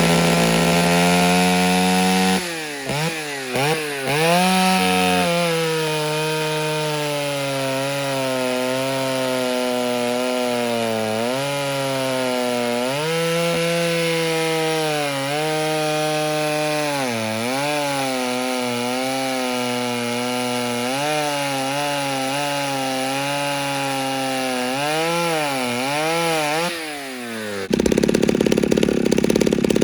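Ported Stihl 08S two-stroke chainsaw at full throttle, then pulled down into a long cut through wood, its engine pitch dropping and wavering under load for about 25 seconds before the cut ends near the end. The cut goes slowly because the chain is blunt, making powder rather than chips.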